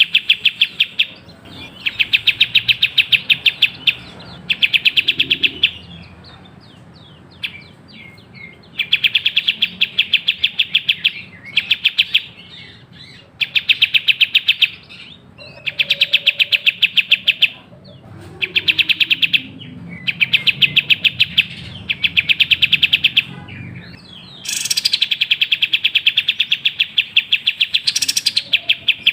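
Kapas tembak bulbul singing in fast, rapid-fire runs of sharp, even chirps, each run lasting a second or two and repeated after short pauses, with a higher, brighter run near the end. This is lure song used to get a reluctant bird singing.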